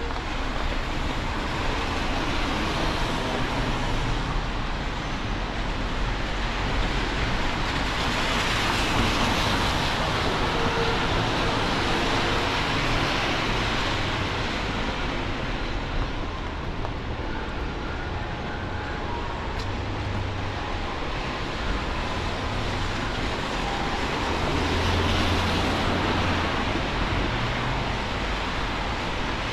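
City traffic on a rain-wet street: vehicles passing one after another, their tyres hissing on the wet road in rising and falling waves.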